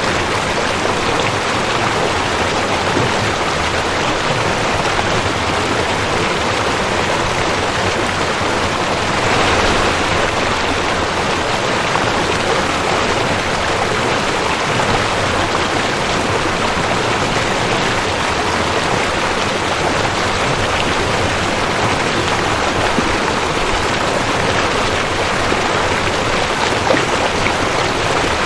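Creek water rushing and splashing over rocks in a steady, even rush, swelling slightly about nine seconds in.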